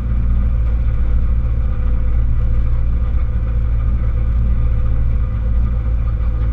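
Rally car's engine idling steadily, heard from inside the stripped-out cabin of the stationary car.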